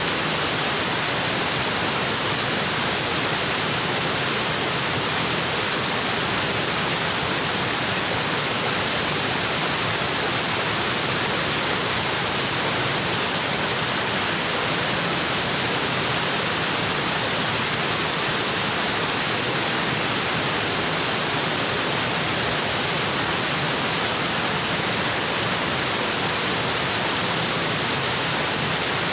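Waterfall: water pouring steadily onto rocks in a dense, even rush with no breaks.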